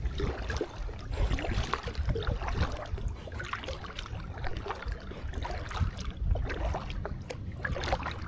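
Wind buffeting the microphone in a steady low rumble, with scattered small clicks and splashes of water around an inflatable kayak.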